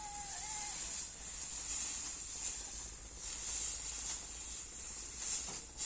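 Steady high-pitched insect chorus that swells and fades, with a drawn-out animal call ending under a second in.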